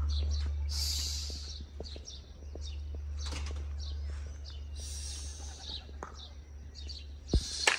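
Birds chirping now and then over a steady low rumble, with one sharp knock near the end.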